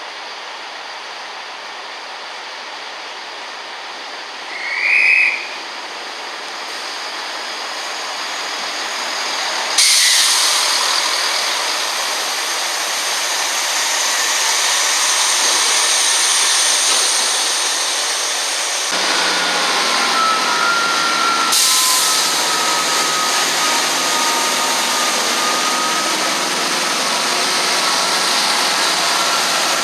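A train passing through the station at speed: a loud rush of wheel and air noise that sets in suddenly about ten seconds in and carries on. A short high-pitched tone sounds a few seconds before it, and a faint whine gliding slightly down runs through the second half.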